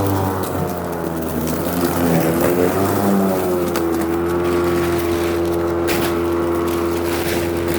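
Battery-powered electric lawn mower running, its motor and blade whirring. The pitch wavers and dips through the first few seconds, as the blade loads up in the grass, then holds steady from about four seconds in.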